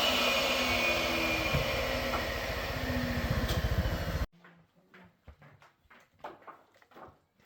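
A loud machine running with a steady hiss and a rapid low pulse; it cuts off suddenly about four seconds in, leaving only faint scattered taps and knocks.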